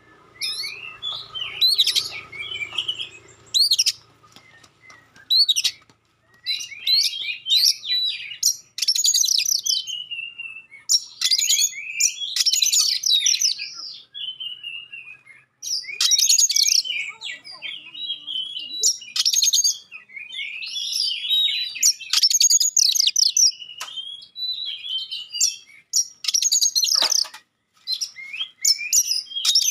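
Oriental magpie-robin (kacer) singing in loud, sharp bursts of rapid, varied whistled phrases, each a second or two long with short pauses between.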